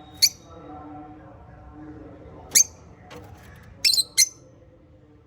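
Small pet parrots calling: four short, shrill squawks, the last two close together about four seconds in, over a quieter steady chatter in the background.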